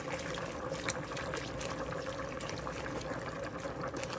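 A pot of chicken soup with vegetables bubbling on the stove, a busy patter of small pops over a steady hum.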